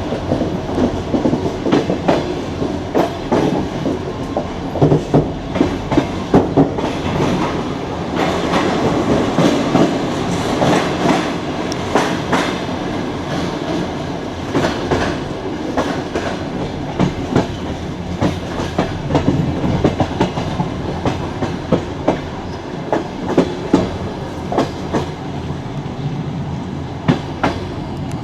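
Passenger train running on the rails, heard from the carriage window: a steady rumble with frequent, irregular clicks and knocks as the wheels go over rail joints.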